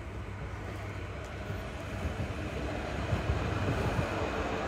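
A rail vehicle running nearby: a steady rumble that grows gradually louder.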